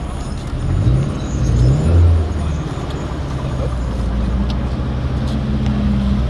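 Car engine running at low speed with road noise, its pitch rising briefly about a second in, then holding steady.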